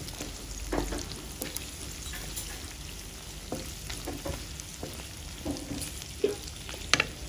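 Sliced shallots, garlic, ginger, turmeric, lemongrass and lime leaves sizzling in hot oil in a stone-coated frying pan: spices being sautéed until fragrant. They are stirred with a spatula, which gives occasional short scrapes and taps against the pan, one louder near the end.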